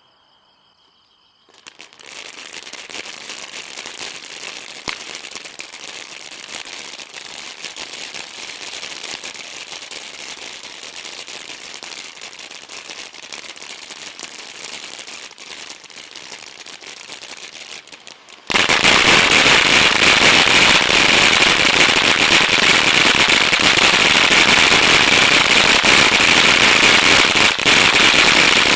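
Brothers Fireworks 'Glitz It Up' ground fountain firework spraying with a steady hiss, starting about two seconds in. About two-thirds of the way through it abruptly becomes much louder and denser, and it stays that way.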